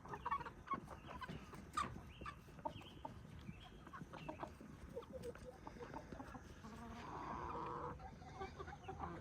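Backyard chickens clucking quietly, in short scattered clucks, with a longer sound lasting about a second around seven seconds in.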